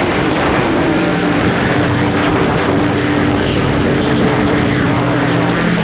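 CB radio receiver hiss and static between transmissions, with faint steady whistling tones from other stations' carriers.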